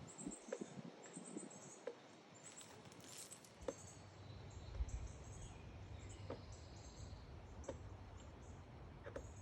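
Faint outdoor ambience of small birds chirping in short high notes, with occasional soft clicks and a low steady rumble that starts about four seconds in.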